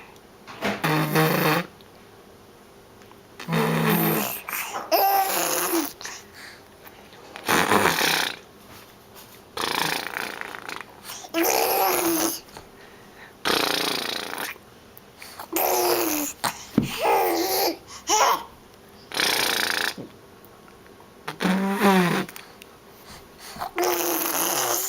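A baby blowing raspberries and babbling in about a dozen short bursts, roughly one every two seconds, with pauses between them.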